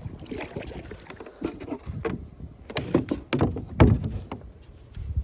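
Kayak paddling and handling noise: irregular knocks and thumps against the kayak, the loudest about four seconds in.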